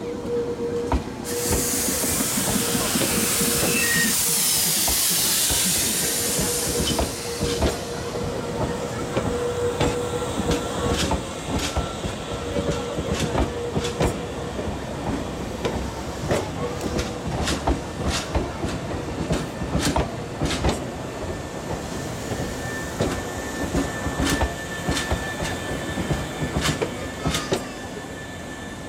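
Nankai 10000 series electric train rolling slowly past on yard tracks, its wheels clicking over rail joints and points. There is a loud hiss of air from about one to seven seconds in.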